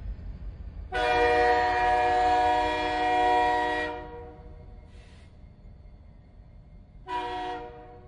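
Multi-chime train air horn sounding a chord. One long blast of about three seconds is followed, after a pause, by one short blast near the end.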